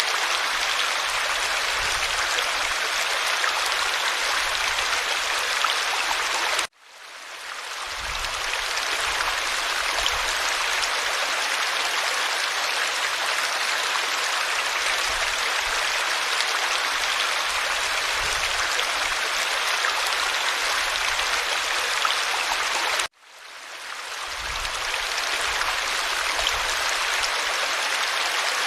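Forest stream flowing steadily, a continuous rushing and babbling of water. The sound cuts out suddenly twice and fades back in over about a second each time.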